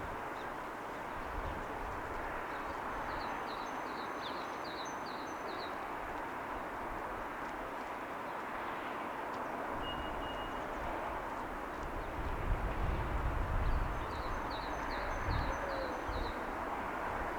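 Steady wash of distant city and ocean ambience. A small songbird twice sings a short phrase of about seven quick, high, repeated notes. Low rumbles come and go in the second half.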